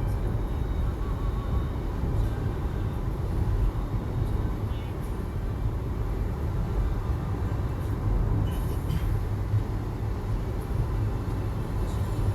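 Steady low rumble of a vehicle travelling at speed: road and engine noise, with no distinct events standing out.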